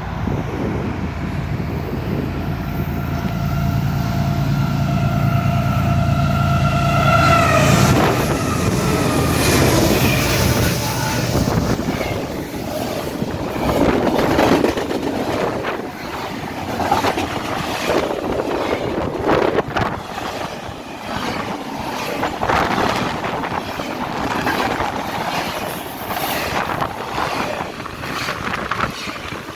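Freight train passing at speed, led by GE ES44AC diesel locomotives. The lead locomotive's horn sounds a steady chord for about eight seconds, over the engines' rumble, and dips in pitch as it goes by. The freight cars then roll past with wheels clattering over the rails.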